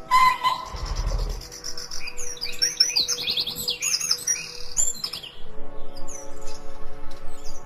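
Several songbirds chirping and singing in quick, rapid phrases, busiest through the middle, over soft background music with long held notes. A brief low rumble about a second in.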